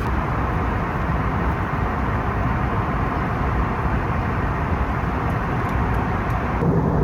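Steady, loud rumbling noise of a moving vehicle. About six and a half seconds in it changes abruptly: the hiss falls away and a lower, steady hum takes over.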